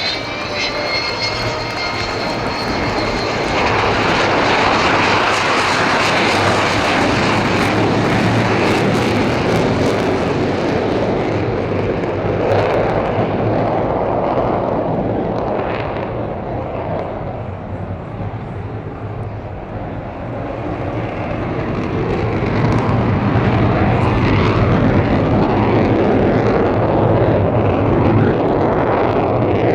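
Avro Vulcan XH558's four Rolls-Royce Olympus turbojets roaring past in a low flyby, with a high whistling whine in the first couple of seconds. The loud jet roar eases briefly about two-thirds of the way through, then swells again as the bomber comes round.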